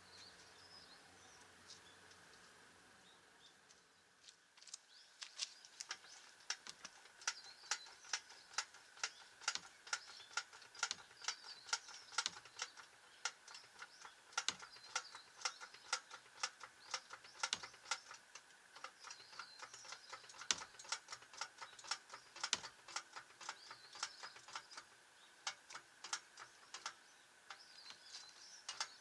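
Quick, uneven ratchet-like mechanical clicking, several clicks a second, starting about four seconds in and running on with a short lull near the end.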